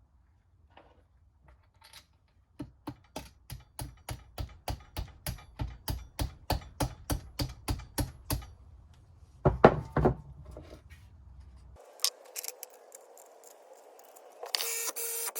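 Hand-tool work on a car differential: a run of sharp metallic clicks at about three a second, growing louder, then a couple of heavier knocks. Near the end a machine starts running with a steady whine.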